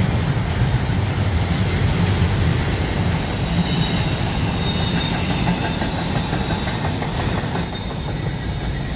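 Long freight train of empty cars rolling across a railway bridge: a steady, loud rumble and rattle of wheels on rails, with a faint high wheel squeal about halfway through.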